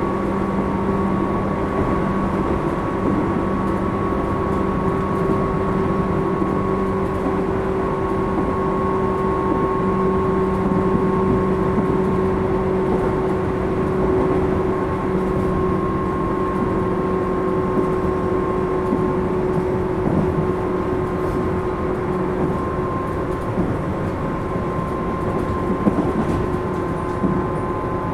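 Tobu 10000-series electric train running, heard from inside a motor car. A steady rumble of wheels on rail carries a few steady humming tones, and the lowest hum fades about two-thirds of the way through.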